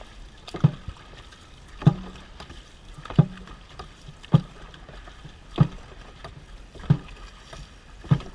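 Dragon boat drum struck in a slow, steady beat, a low boom about every 1.3 seconds, setting the paddlers' stroke rate.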